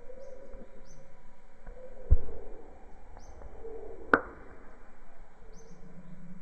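Short, high, falling bird chirps repeated every second or two over a steady hiss, with a loud dull thump about two seconds in and a sharp click about four seconds in.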